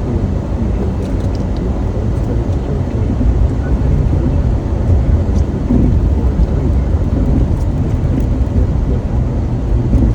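Steady, loud low rumble of noise with a few faint clicks, growing a little louder about three seconds in.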